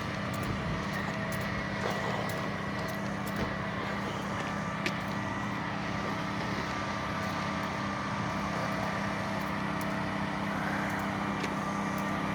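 A large vehicle's engine running steadily at idle, an even hum with a few faint clicks.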